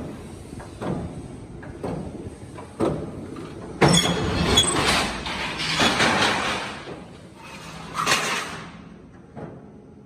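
Steel parts being handled and worked: a series of metal knocks and clanks with scraping between them. The loudest clank, about four seconds in, rings briefly.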